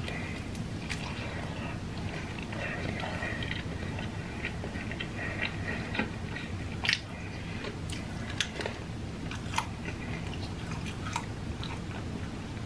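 A person biting into and chewing loaded tortilla-chip nachos, with sharp crunches of the chips breaking now and then, most of them in the second half.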